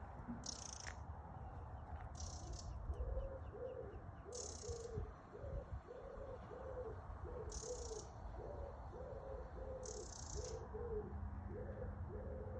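Birds calling: a steady run of low, evenly repeated call notes, with short high-pitched bursts every two to three seconds, over a low rumble of wind.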